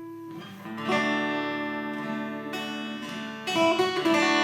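Acoustic guitar playing the opening chords of a song, with new chords struck about a second in and again about three and a half seconds in, each left to ring.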